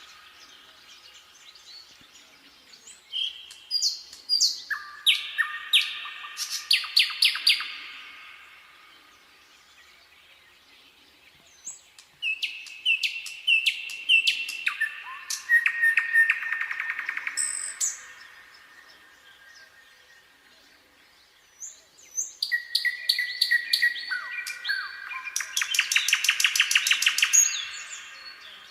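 Nightingale singing: three song phrases, each a run of rapidly repeated notes and trills, separated by pauses of a few seconds.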